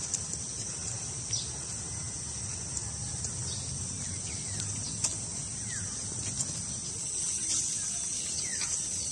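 A steady, high-pitched chorus of insects, crickets or cicadas, with short falling bird chirps scattered through it over a low rumble.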